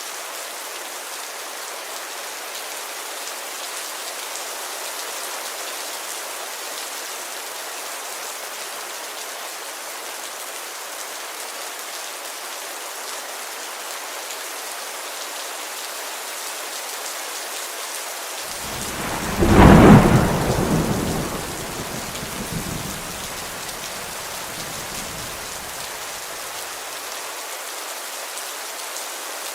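Heavy rain falling steadily on a window. About two-thirds of the way through, a sudden loud clap of thunder rumbles away over several seconds.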